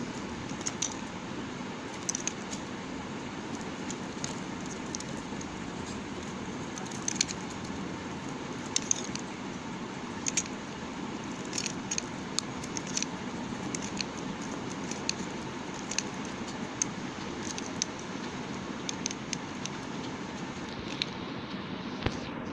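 Knife cutting into bar soap: irregular crisp clicks and crackles, a dozen or more, over a steady background hiss.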